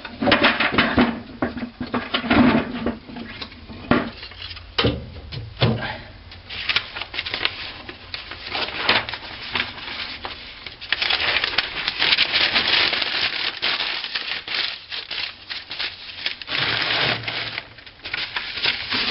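Thicker sticks of dry kindling wood being handled and laid onto a fireplace grate, knocking and clattering against each other in quick irregular clicks, with rubbing and scraping between them.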